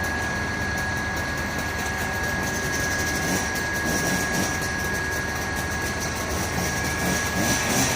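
Fire truck engine running steadily, with a steady high whine over the engine noise.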